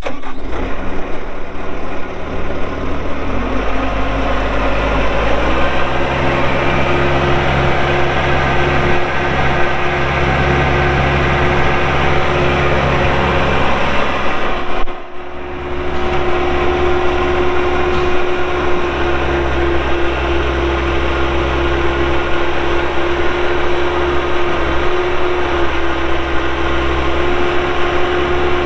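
Bobcat S185 skid steer's Kubota diesel engine running. The throttle is brought up in two steps within the first six seconds, then the engine holds a steady speed, with a brief break about halfway through.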